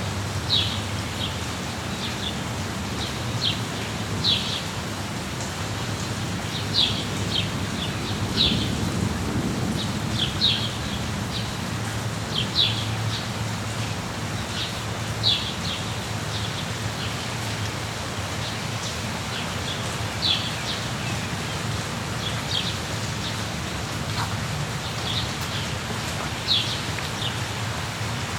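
Steady rain, with a low rumble underneath that swells briefly about a third of the way in. Over it a bird gives short, high, downward-sweeping chirps every second or two.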